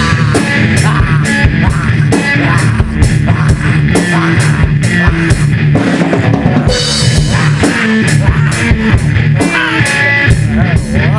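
Loud heavy metal track with rapid drum kit hits and bass drum under guitar, with a few sliding high notes.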